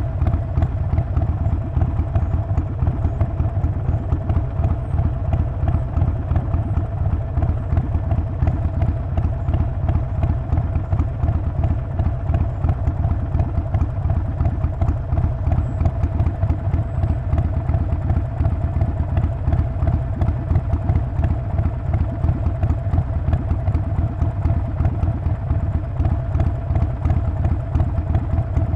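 Harley-Davidson Sportster Forty-Eight's 1200 cc air-cooled V-twin running steadily, with a rapid, even pulsing exhaust beat that holds a constant pace throughout.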